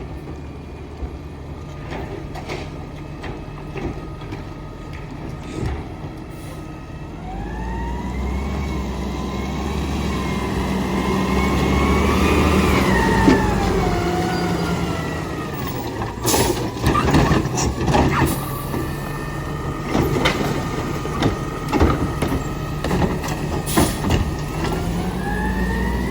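Garbage truck running, its engine revving up for several seconds under a whine that rises and falls in pitch, then settling back while a string of sharp metallic clanks and knocks follows.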